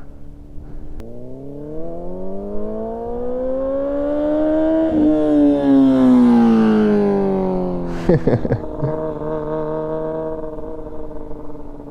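Yamaha R6 sport bike's inline-four engine revving up as the bike accelerates for about four seconds, then easing off and settling to a steady lower note. A short burst of clattering comes about eight seconds in.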